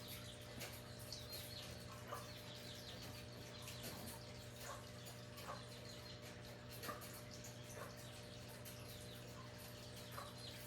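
Faint, short bird chirps repeating about once a second over a steady low electrical hum.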